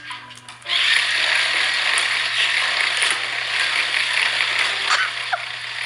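Motorized toy car running, its small motor and gears giving a steady rattling whir that starts suddenly about a second in.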